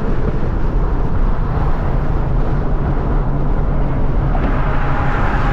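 2014 Ford Mustang GT's 5.0 V8 engine and exhaust running steadily while driving, a low hum that holds the same pitch, with no revving or downshifts.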